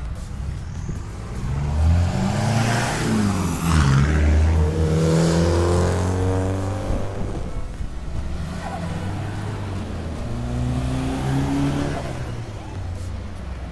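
A car's engine revving as it accelerates past, loudest about three seconds in, its pitch climbing and then dropping as it goes by. A second engine revs up again around ten seconds in.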